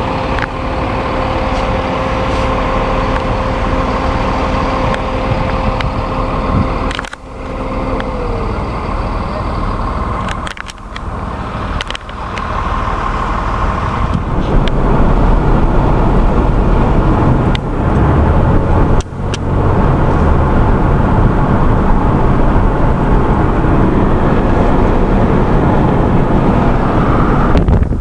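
Steady road and engine noise of a moving car, a continuous rumble with a few brief drops.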